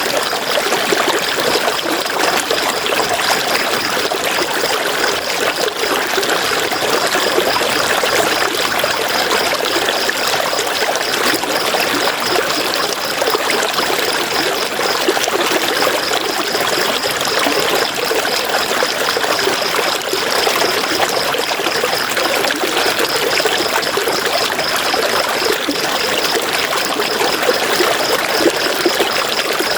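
River water flowing steadily, a continuous trickling rush. A fast, high-pitched pulsing runs faintly beneath it.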